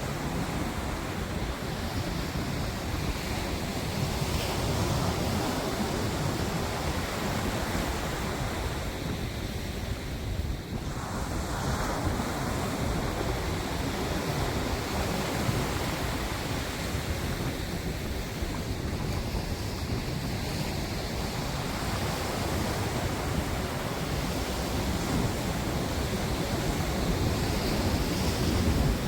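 Steady rushing noise of wind buffeting the microphone, mixed with breaking waves along the shore.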